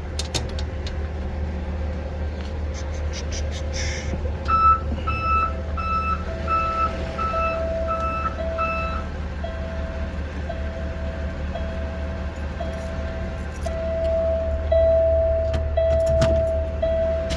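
Truck backup alarms beeping over a steady low engine rumble. A higher-pitched alarm beeps about every half second for a few seconds, while a lower one starts soon after with longer beeps about once a second and keeps going.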